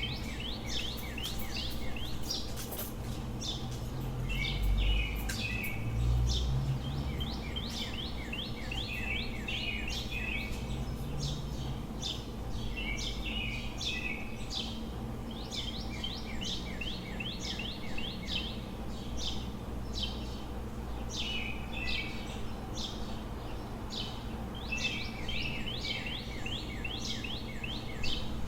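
Several birds singing, quick runs of high chirping notes repeating every few seconds, over a steady low city hum. A louder low rumble swells briefly about four to six seconds in.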